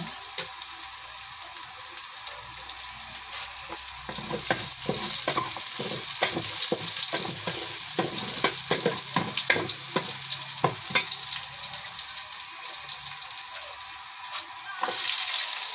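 Ginger and garlic sizzling in hot oil in an aluminium pot, with a wooden spatula scraping and knocking against the pot as they are stirred. The stirring is busiest from about four seconds in until about eleven seconds.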